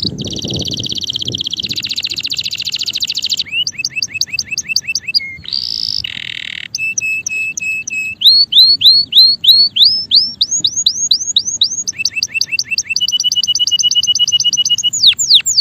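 Male canary singing a long, varied song: a fast buzzing roll, then runs of quick rising chirps and steady rapid trills, the phrase changing every second or two, with a few falling sweeps near the end.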